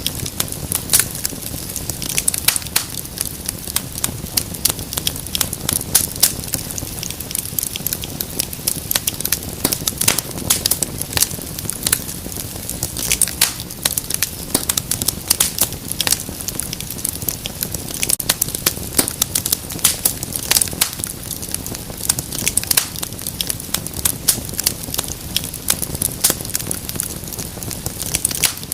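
Wood fire crackling and popping steadily, a dense run of sharp irregular snaps over a low hiss and rumble of flame.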